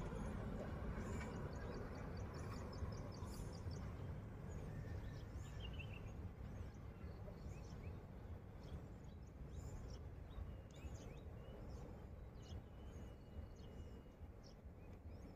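Low rumble of a receding train fading gradually away, with small birds chirping over it.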